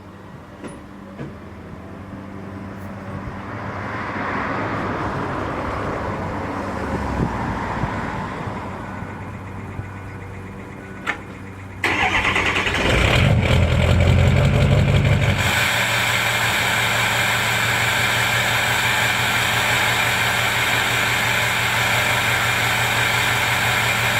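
2005 Ford 6.0 Powerstroke V8 turbodiesel with a 4-inch straight-pipe exhaust cold-starting: about twelve seconds in it cranks briefly, catches and runs up loudly, then after about three seconds settles into a steady idle. Before the start, a quieter hiss swells and fades.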